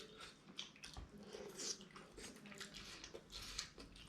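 Close-up eating sounds of people chewing dhido and fish gravy: faint, irregular wet smacking and squishing mouth sounds, several a second.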